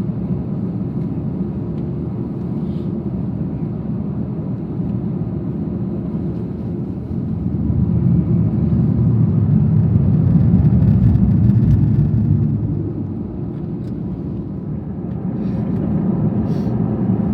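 Steady low rumble of an Airbus A321 heard inside the cabin, swelling louder for about four seconds in the middle, then easing and rising again near the end.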